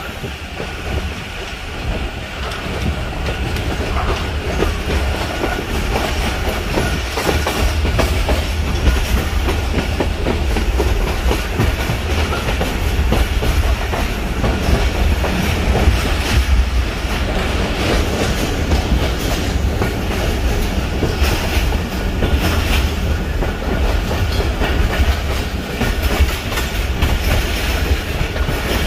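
Pak Business Express passenger train running along the track, heard from aboard a moving carriage: a steady low rumble with the wheels clicking and knocking over the rail joints throughout.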